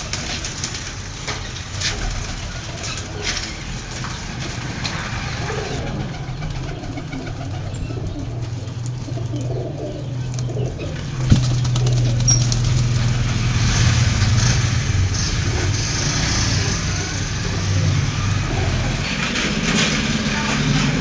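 Domestic pigeons cooing over a steady low hum, with scattered clicks and one sharp knock about eleven seconds in.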